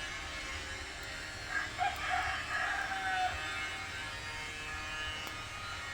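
A rooster crows once, about a second and a half in, lasting nearly two seconds, over a steady background hum.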